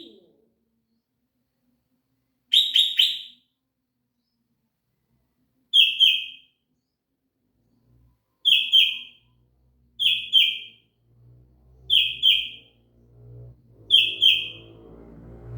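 Sooty-headed bulbul (kutilang) calling: six short phrases of two or three quick, clear notes, each a few seconds apart. A low hum builds in about two-thirds of the way through and grows louder near the end.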